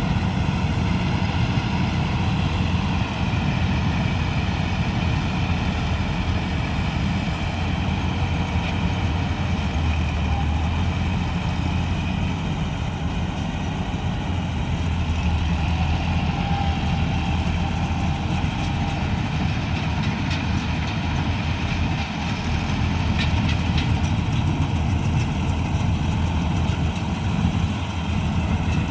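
Diesel engine of a wheeled paddy combine harvester running steadily at a constant pace.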